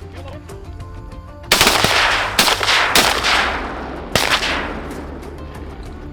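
Several shotguns firing at teal: about four loud blasts within three seconds, the first three close together and the last a second later, each trailing off in a long echo.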